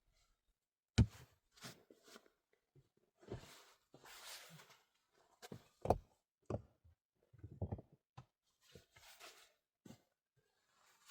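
Scattered handling noises from someone working by hand: a sharp knock about a second in and another near six seconds, with rustling and scraping between them and a cluster of soft thuds.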